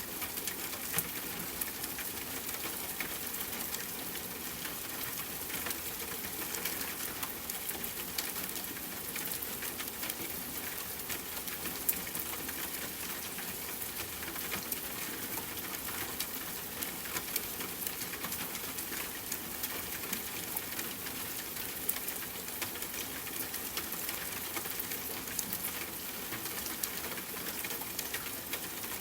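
Steady rain pattering on a tent, with scattered sharp pops and crackles from a campfire.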